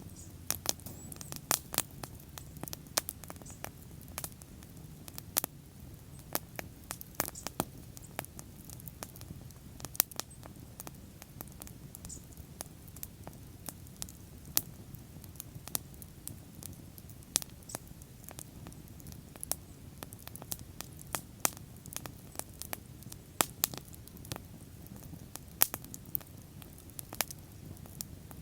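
Bonfire burning, wood crackling and popping in frequent irregular snaps over a low steady rush of flames.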